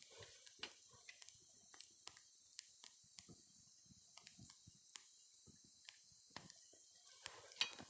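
Wood campfire crackling: faint, irregular sharp pops and snaps over a soft hiss, with a brief cluster of louder pops near the end.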